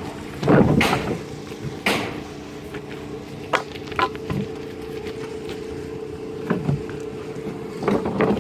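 Steady hum of an idling engine, with scattered knocks and clatters of scrap lumber being handled.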